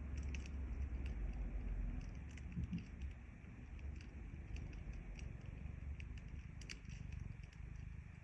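A cat purring, a low, fast-pulsing rumble that softens about two to three seconds in. Sharp little pops and crackles from a wood fire are scattered through it.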